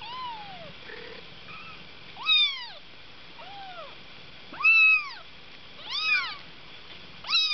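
Kittens mewing repeatedly: about six high-pitched mews, each rising then falling in pitch, a second or so apart.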